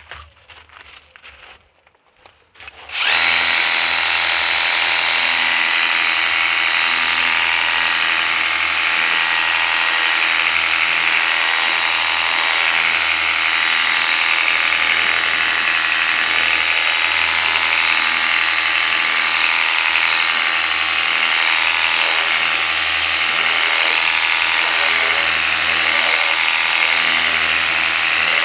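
Worx Hydroshot cordless pressure washer starting up about three seconds in and then running steadily, its motor and pump humming under the hiss of a water jet from a 15-degree nozzle.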